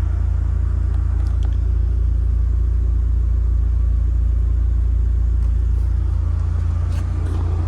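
Mitsubishi Lancer Evo Tommi Makinen's 2-litre turbocharged four-cylinder engine idling, a steady low rumble.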